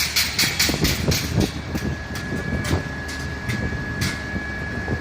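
Fire truck engine running after a start, with a run of sharp clicks and knocks at first and then a steady high whine from about two seconds in.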